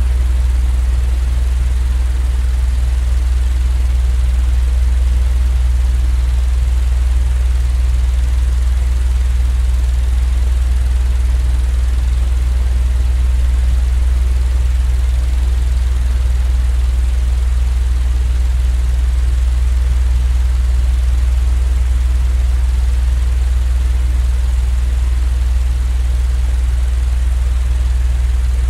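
Steady, unchanging deep drone with an even hiss above it, a continuous noise track for lulling a baby to sleep.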